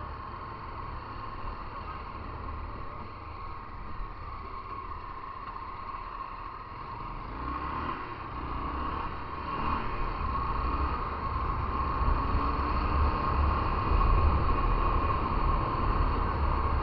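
Motorcycle engine running while riding, with wind rumbling on the microphone; it grows louder through the second half and the engine pitch shifts a few times.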